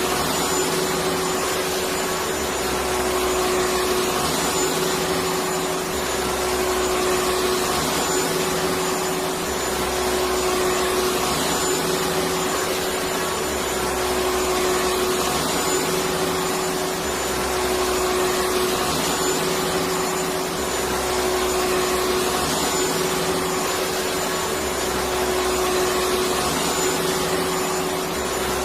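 Electric vacuum cleaner running steadily: a constant whoosh of air with a steady motor whine, played continuously as a soothing sound for a colicky baby.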